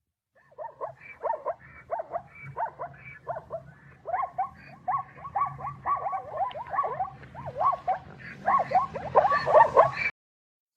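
Animal calls: a rapid series of short yelping calls, two or three a second, getting louder toward the end, over a low steady hum, cutting off abruptly near the end.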